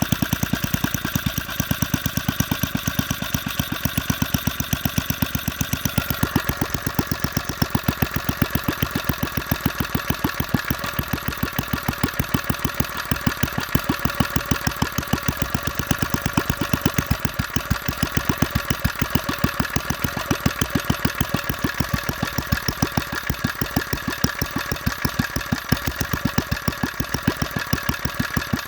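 Briggs & Stratton single-cylinder engine running at a slow idle, each firing stroke heard as a separate even beat. Its tone changes slightly about six seconds in, but the beat stays steady.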